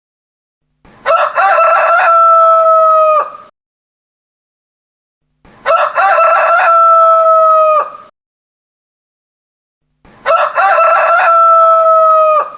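Rooster crowing three times, a few seconds apart, each crow about two and a half seconds long with a stuttering start and a long held final note; complete silence between crows.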